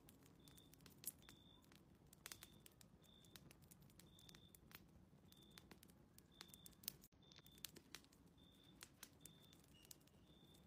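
Faint crackling of a wood fire in a fireplace, irregular small snaps and pops, with a short high chirp repeating roughly every second.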